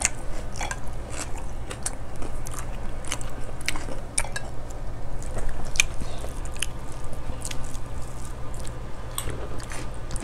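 Close-miked eating sounds: chewing and mouth smacks with irregular soft clicks, as people eat rice and meat with their hands. A low steady hum sits underneath.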